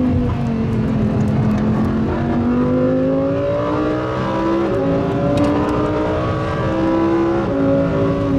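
A car engine revving. Its pitch falls at first, then climbs, with a sudden drop about halfway through and another near the end, as when a car accelerates through the gears.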